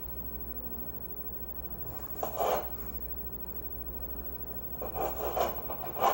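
A kitchen knife chopping tomatoes into small pieces: short runs of cutting and scraping strokes about two seconds in, again around five seconds, and near the end.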